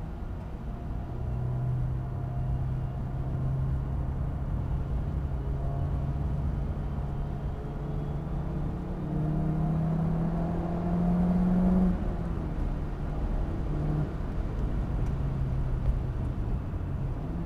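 Car engine heard from inside the cabin, pulling as the car accelerates. Its note rises and then drops suddenly about twelve seconds in at a gear change, over a steady low rumble.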